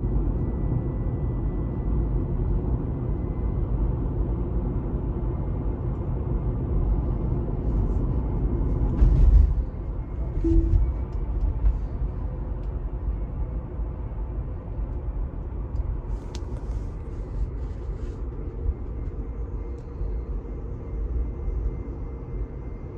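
2018 Tesla Model 3 drive unit and inverter whining: a faint, steady high-pitched whine over low road rumble while the car is driven, with a few knocks, the loudest about nine seconds in and more around sixteen to eighteen seconds. The service center calls the whine normal; the owner suspects the drive unit ground straps.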